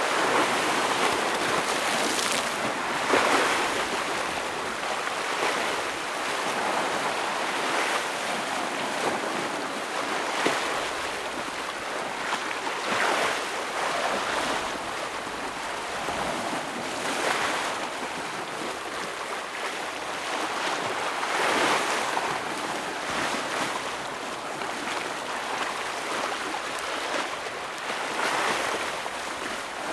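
Ocean waves breaking on a rocky shore: a steady hiss of surf that swells every four to five seconds as each wave crashes in and washes back.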